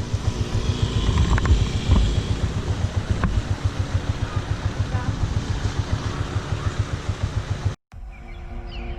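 Honda TMX Alpha 125's single-cylinder four-stroke engine running at low revs with a steady, rapid putter, with wind on the microphone. It cuts off abruptly about eight seconds in, and soft background music begins.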